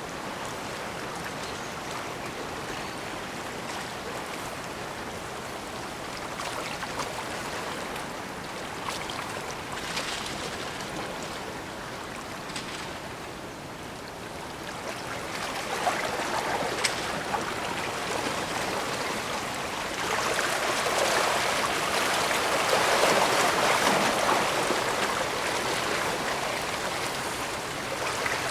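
Bay waves washing ashore: a steady rush of water that swells louder twice in the second half, with a few small splashes.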